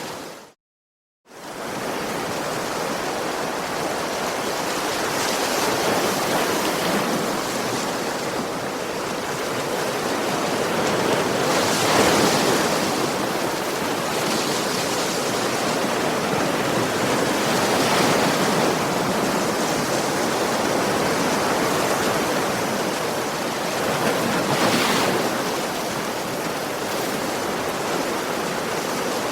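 Ocean waves breaking on a shore: a steady rush that swells as a wave breaks about every six seconds. The sound cuts out completely for about a second near the start.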